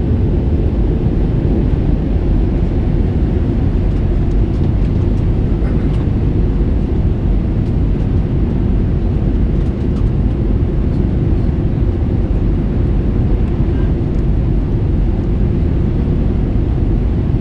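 Airbus A321 in flight, heard from inside the cabin: the steady, loud rumble of airflow over the fuselage and the engines, with a faint steady hum.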